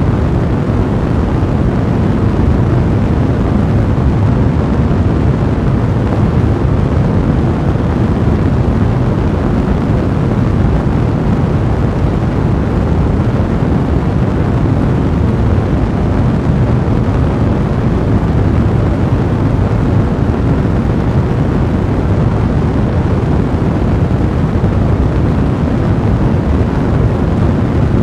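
Blazing fire burning steadily, a deep, even rush of flames with no distinct crackles or pops.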